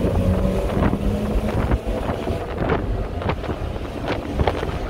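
Engine and road noise of a Mercedes-Benz E320 Cabriolet's 3.2-litre straight-six on the move with the top down, a steady low rumble with wind buffeting the microphone.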